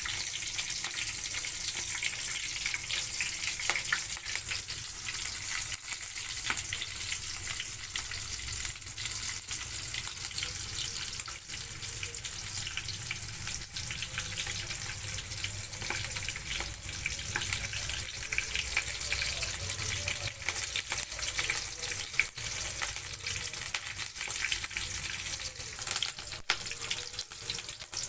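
Capsicum frying in hot oil in a pan: a steady sizzle with many small crackles.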